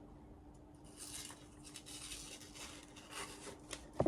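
Faint rustling and scraping of handling in a small room, with a few light clicks, a steady low hum and a sharp knock near the end.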